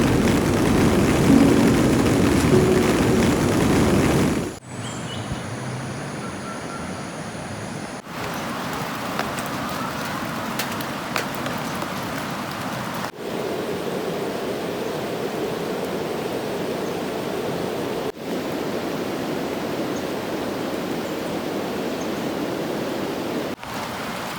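Steady hiss of rain and flowing river water, broken by abrupt cuts between shots every few seconds. Background music trails off in the first few seconds.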